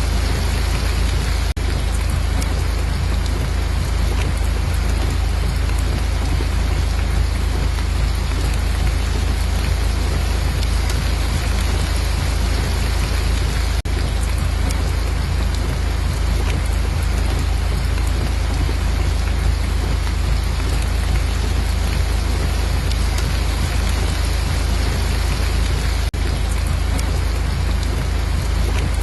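Steady heavy rain: an even hiss of falling water with a deep low rumble underneath, unchanging throughout.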